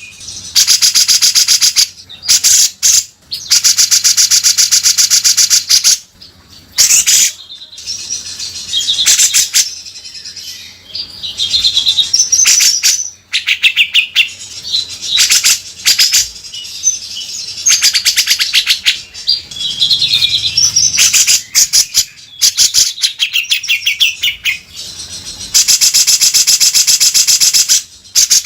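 Grey-cheeked bulbul (cucak jenggot) singing in its harsh 'beset' style: long rattling trains of very fast repeated notes, each lasting a second or two, broken by short warbling whistled phrases.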